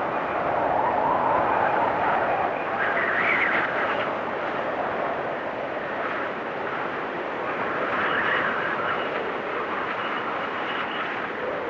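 Blizzard wind blowing in gusts: a steady rushing noise with whistling swells that rise and fall in pitch every few seconds.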